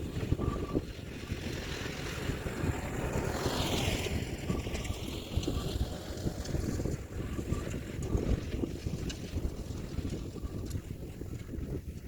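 Kioti DK4710SE tractor's diesel engine running under load as it works a landscape rake across the yard, with wind buffeting the microphone and a louder gust about three seconds in.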